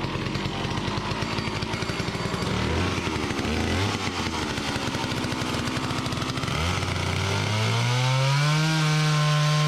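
Gas chainsaw running at uneven part throttle, then revved about seven seconds in, its pitch rising to a steady high whine at full throttle.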